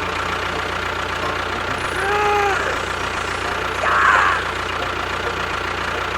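An engine running steadily at idle with a low rumble, with a short pitched tone that rises and falls about two seconds in and a brief louder burst about four seconds in.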